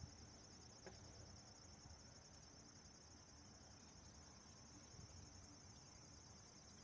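Near silence, with a faint, steady, high insect trill in the background.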